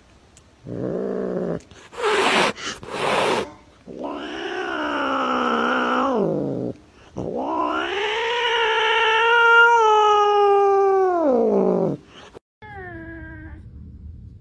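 Cat yowling: after a few short hissing noises come two long drawn-out caterwauls, the second one longer and sliding down in pitch as it ends. A short meow follows near the end.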